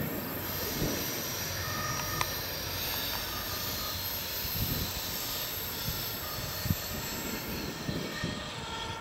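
Diesel passenger train running away along the track, a steady distant rumble as it recedes.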